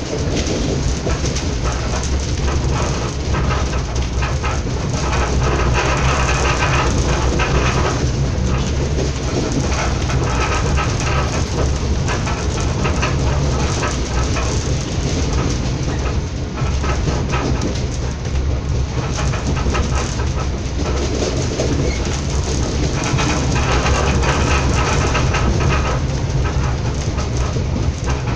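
Passenger train running along the track, heard from inside the carriage: steady wheel-on-rail noise with a low hum underneath.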